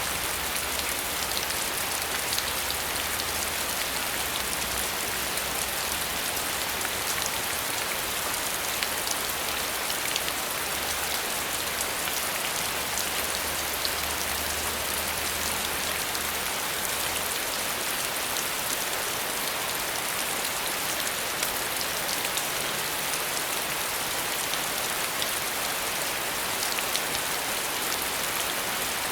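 Steady rain falling: an even hiss of many small drop ticks that does not let up, with a faint low hum underneath that stops a little past halfway.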